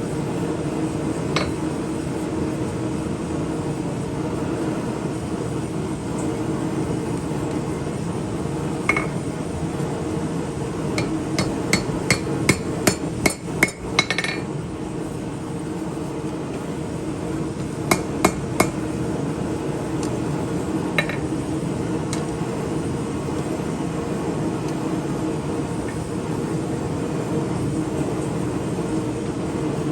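Hammer striking steel on an anvil while forging a chef knife blade. There are scattered single blows, a quick run of about eight ringing strikes in the middle, and three more a few seconds later, all over a steady background noise.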